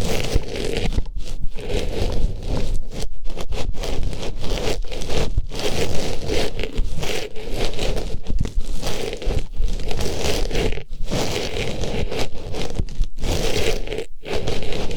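An artificial flower pushed into and rubbed around a microphone's ear, giving close, loud scratchy rustling and crackling, broken by a few short pauses.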